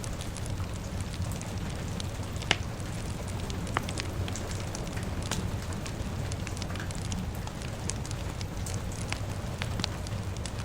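Fire crackling, with frequent sharp pops, the loudest about two and a half seconds in, over a steady low rumble of rain.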